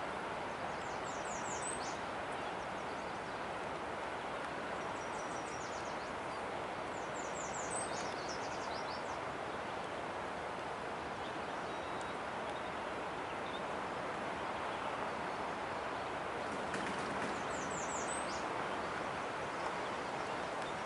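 Steady outdoor noise, like rushing water or wind, with a small songbird singing short runs of high chirping notes several times.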